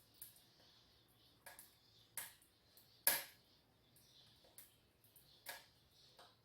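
Burning wood stove giving faint, sharp clicks and pops, about six spread over the few seconds, the loudest about three seconds in.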